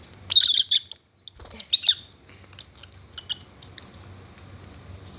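Lovebirds squabbling: sharp, high squawks in short bursts, about half a second in, near two seconds and again around three seconds. The hens are bickering over a nest site in the hormonal laying season.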